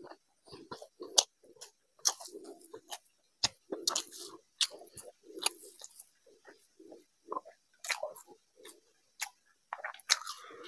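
Close-miked chewing and wet mouth clicks and smacks of a man eating rice and curry by hand, many short sharp sounds in quick, irregular succession.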